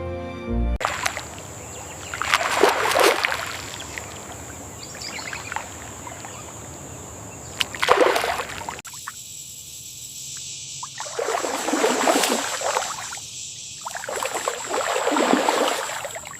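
Water sloshing and splashing in several surges, about four in all, with a thin steady high whine behind them.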